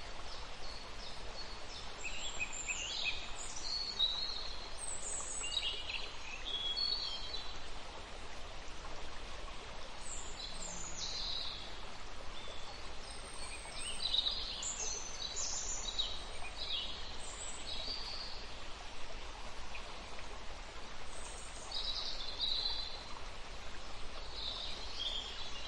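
Small birds singing in scattered bursts of quick high chirps and trills, over a steady outdoor background hiss.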